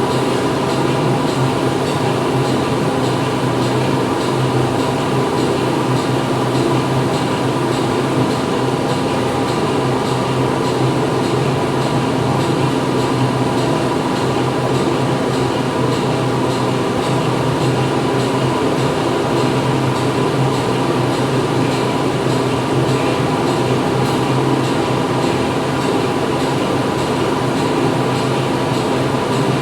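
Factory machinery running steadily: a dense, even mechanical noise with several constant hum tones that does not change.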